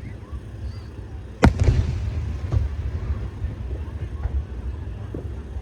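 Aerial fireworks shells bursting: one loud boom about a second and a half in, followed by a rumbling, crackling tail. Smaller pops come later, over a steady low rumble.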